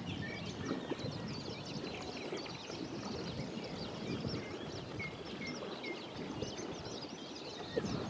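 A dense chorus of many birds calling and singing at once around ponds, a steady stream of short high chirps and whistles, over a steady low background rumble.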